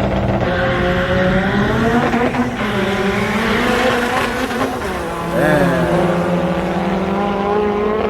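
Sports car engines running hard and revving, the pitch gliding up and falling back as they accelerate and shift, with a sharp climb in revs about five seconds in.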